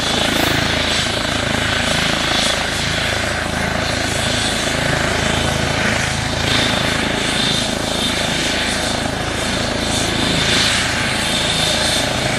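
Hovercraft's engines and propellers running close by: a loud, steady heavy drone with a low throb that holds at one level throughout.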